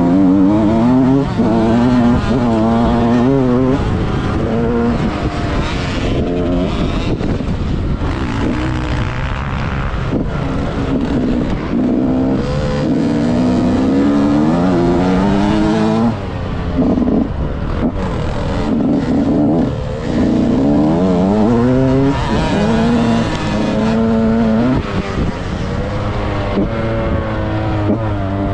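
A 2006 KTM SX 65's small two-stroke engine revving hard as the bike is ridden round a motocross track. Its pitch climbs again and again and steps back down at each gear change or throttle cut. The throttle is briefly shut off a few times past the middle.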